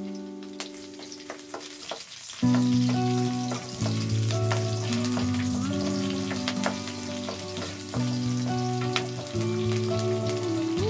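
Green chillies and bay leaves sizzling in hot oil in a nonstick wok, with small pops and a spatula stirring them. Soft background music with a slow melody plays over it, louder from about two seconds in.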